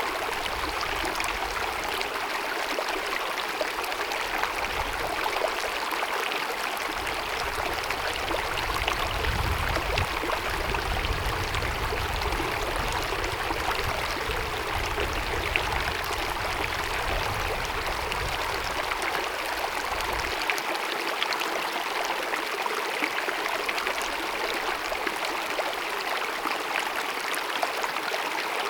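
Glacier-fed mountain meadow stream babbling and cascading over rocks, a steady rush of running water.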